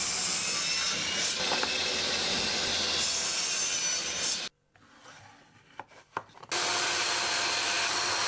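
A power tool, most likely a drill, cutting steadily into wood. The sound stops abruptly about four and a half seconds in and starts again steadily about two seconds later.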